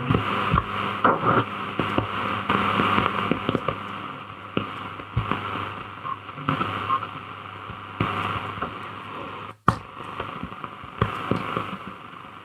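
Shortwave reception on a Grundig Satellit 2100 portable radio: a steady hiss of static with frequent crackles. About ten seconds in, the sound cuts out for an instant and there is a sharp click.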